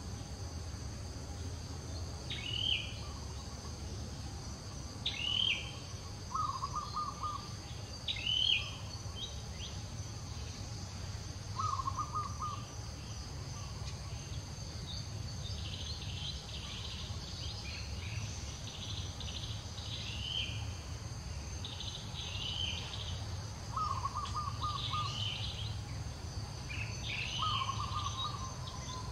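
Forest birds calling: a short arched chirp repeats every few seconds and comes faster in the second half, with a lower rapid trill about four times. Beneath them run a steady high insect drone and a low rumble.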